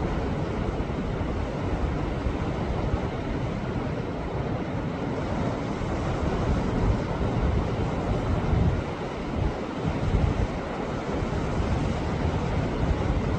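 Sea waves surging and washing against a rocky shore: a continuous rushing wash with a heavy, uneven low rumble that swells and eases.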